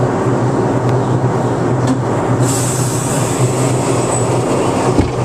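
NYC subway train of R62A cars running along the track, a steady low rumble of wheels on rail, with a high hiss coming in about two and a half seconds in and a short knock near the end.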